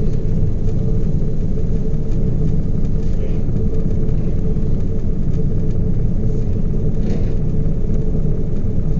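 Ship's engine and machinery running, heard as a steady low rumble with a faint constant hum above it.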